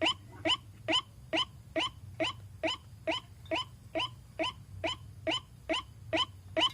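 White-breasted waterhen (ruak-ruak) calling, one short call repeated evenly about twice a second as a monotonous series, as played for a lure.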